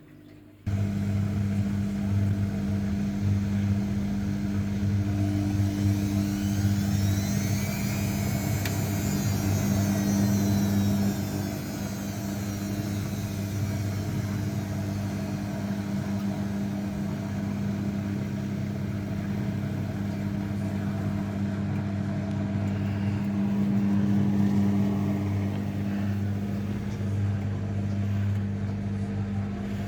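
Zanussi washing machine running, its motor humming steadily, with a whine that climbs and then falls away about seven to eleven seconds in and again more faintly near the end as the drum turns.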